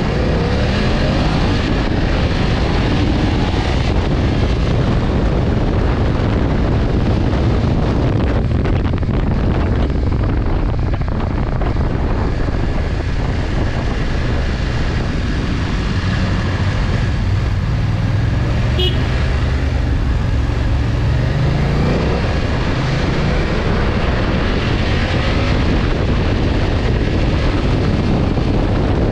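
Motorcycle engine running under way with a steady rush of noise. The engine note rises as it accelerates at the start and again about two-thirds of the way through.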